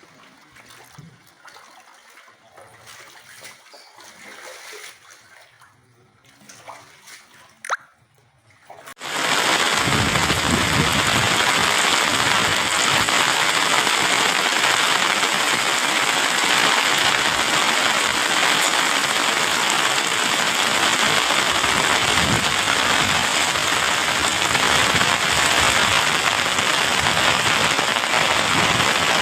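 A few faint seconds with a sharp click, then, suddenly about nine seconds in, a loud steady rush of water noise with no rhythm, like heavy rain or fast-flowing floodwater.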